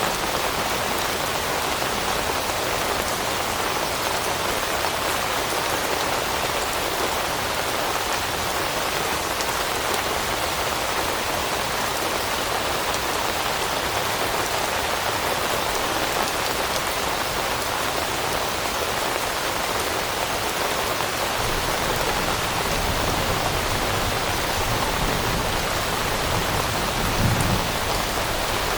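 Steady rain falling on leaves, an even hiss of raindrops. A low rumble joins in over the last several seconds and swells briefly near the end.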